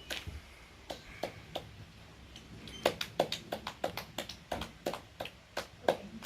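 A string of sharp, irregular clicks and taps, sparse at first and coming about three or four a second from about three seconds in.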